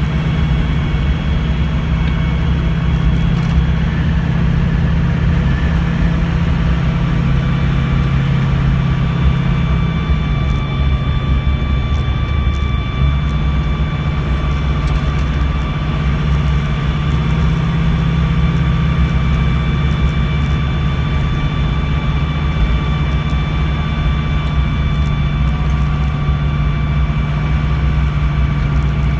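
Ford F-250's 6.0 L Power Stroke V8 turbo-diesel running steadily under way, with road noise and a steady high whine over it. The engine note drops for a few seconds about ten seconds in, then picks back up.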